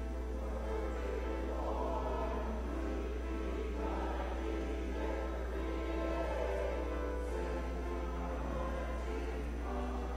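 Church choir singing in sustained phrases that swell and fade every couple of seconds.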